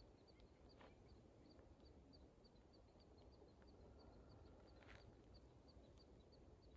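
Near silence: room tone with faint, evenly spaced high chirps from a small animal, about three a second.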